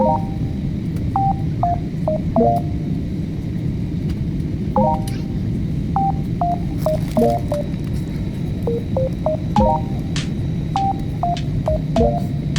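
Steady low rumble of a passenger jet's cabin during take-off, with a light melody of short, high notes playing over it.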